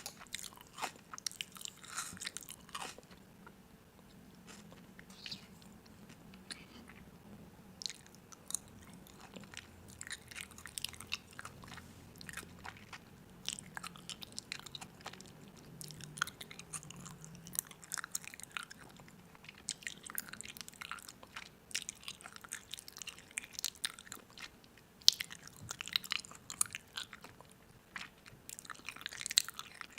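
Crunchy food being bitten and chewed close to the microphone, with irregular crackling crunches throughout.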